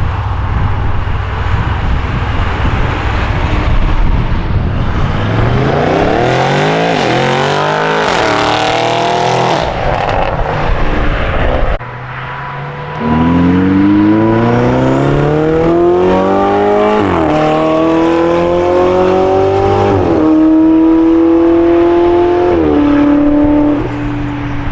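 A car engine rumbling low, then revving up. After a sudden break about halfway, it accelerates hard, its pitch climbing and dropping back at each of about three upshifts.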